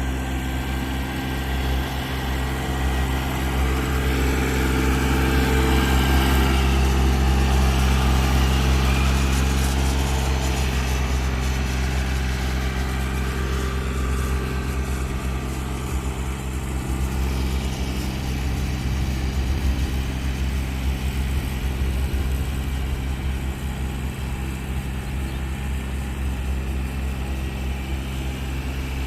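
An engine running steadily with a low, even drone, swelling slightly for a few seconds and then settling.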